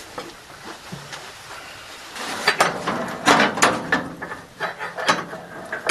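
Hand tools clinking and knocking on the metal parts of a feed mixer under repair, a string of sharp irregular knocks starting about two seconds in.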